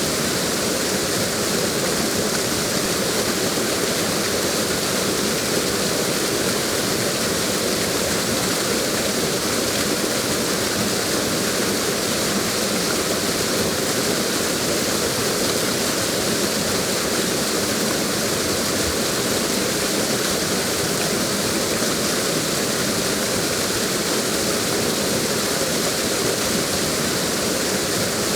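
Waterfall: water falling with a steady, even rush that does not change.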